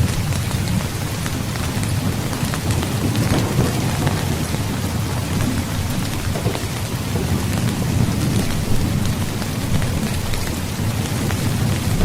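Steady heavy rain over a constant low rumble of thunder, with scattered sharp ticks of individual drops.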